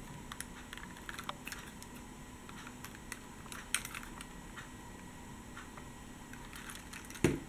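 Faint, scattered light clicks and taps from handling a Siku diecast toy bus.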